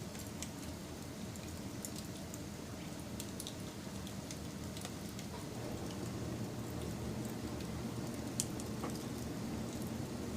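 Wood fire burning with a steady low rumble and scattered sharp crackles and pops, one louder pop about eight seconds in.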